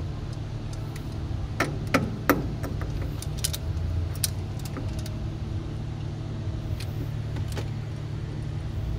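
Metal tools and small hardware clinking several times, most often about two seconds in, over a steady low machine hum.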